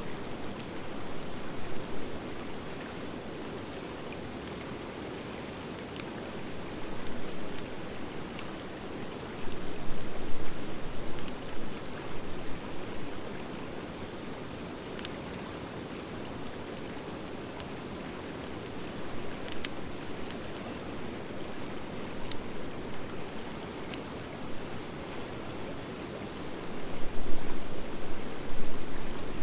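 Wood fire of driftwood and dry hardwood burning in a fire pit: a steady rushing hiss of flames with scattered sharp crackles and pops, swelling louder around a third of the way in and again near the end. The pops come from the dry hardwood mixed in, since driftwood alone gives little crackle.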